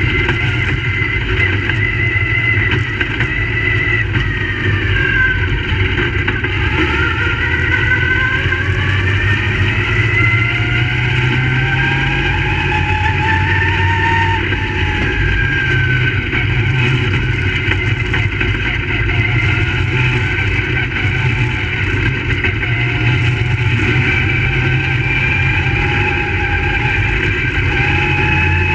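Crate late model race car V8 engines running at speed around the track. The engine pitch falls and rises again and again, easing off and back on the throttle through the laps.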